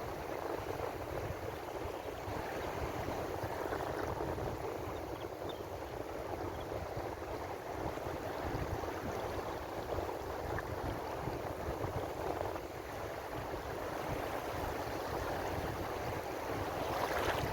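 Ocean surf: a steady rush of waves washing in, swelling slightly near the end.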